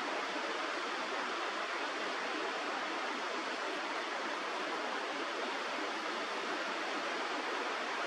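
Steady rushing of river water, an even hiss with no breaks or distinct events.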